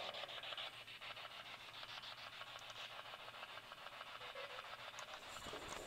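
Quiet room tone: a faint, steady hiss with no distinct event.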